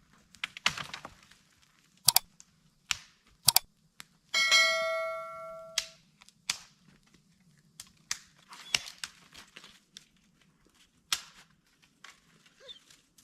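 Sharp clicks and knocks of things being handled, with one metal object struck about four seconds in and ringing for over a second before fading.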